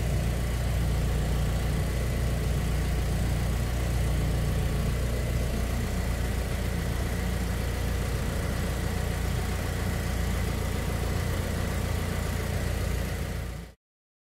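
Opel Vectra C's engine idling steadily, heard from inside the cabin; it cuts off abruptly near the end.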